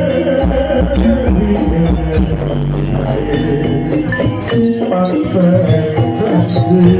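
Live jaranan accompaniment music from a Javanese traditional ensemble: a melody of held notes that steps from pitch to pitch over steady drumming.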